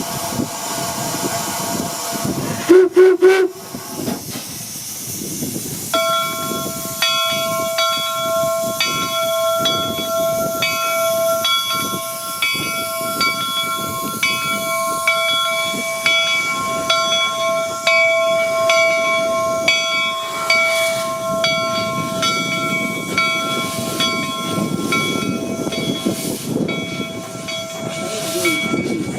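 Steam locomotive whistle: a couple of short, loud blasts about three seconds in, then one long steady chime held for about twenty seconds and cut off near the end.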